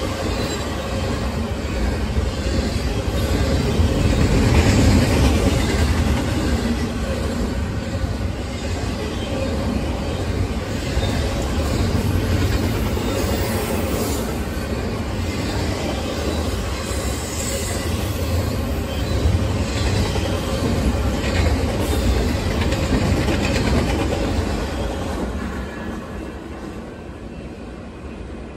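Double-stack intermodal container freight train rolling past on the track, a steady rumble of wheels and well cars that fades away near the end as the last cars pass.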